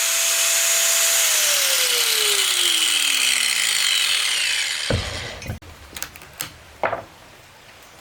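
A power saw cutting wood with a loud, hissing cut. After about a second its motor whine starts to fall steadily in pitch as the blade spins down, and the cutting noise stops at about five seconds. A few separate knocks follow, wood being handled.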